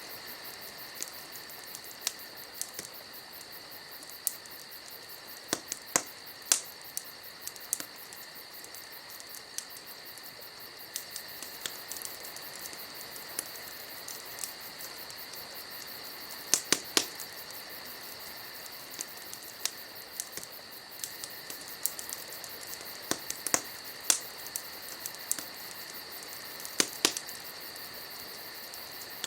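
Wood fire crackling, with scattered sharp pops at irregular intervals, a few of them louder, over a steady high-pitched insect trill.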